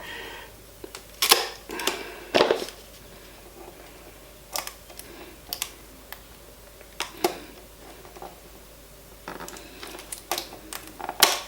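Irregular sharp clicks and snaps of hard plastic packaging being handled and worked open, with a few louder cracks and a quick run of clicks near the end.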